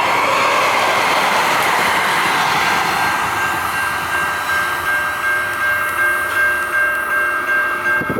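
Light rail train running past on the track: a loud rushing of wheels on rail that slowly fades. A steady high tone comes in about three seconds in and holds.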